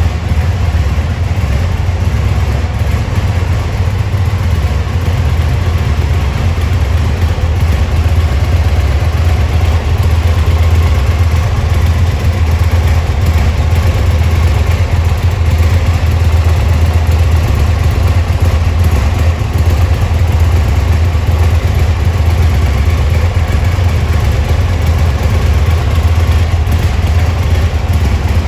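Aprilia Tuono 1000's V-twin engine idling steadily.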